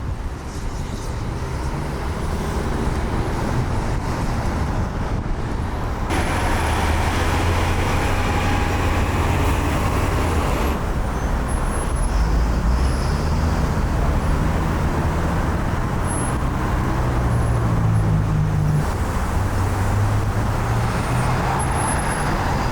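Road traffic noise: vehicle engines running with a steady low hum and a wash of tyre and street noise, changing abruptly twice between shots.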